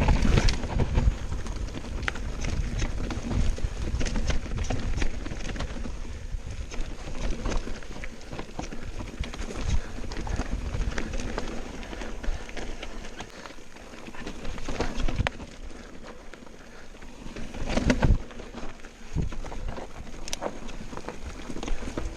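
Mountain bike descending a rough trail: tyres grinding over stones and the bike rattling with many sharp knocks, with a low rumble throughout and louder jolts just after the start and again about eighteen seconds in.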